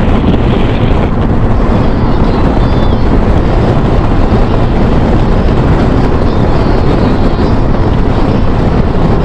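Steady, loud wind rush and engine noise from a motorcycle cruising at highway speed, around 70 mph.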